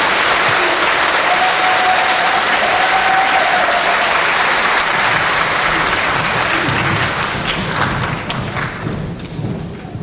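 Audience applauding, the dense clapping thinning out in the second half to scattered single claps and tailing off.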